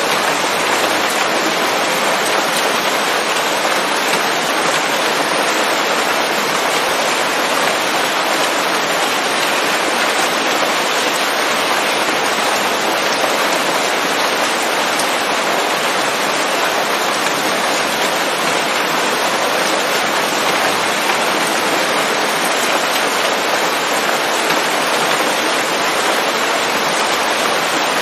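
Steady rain falling on leaves, an even unbroken hiss of many drops with no thunder or single drops standing out.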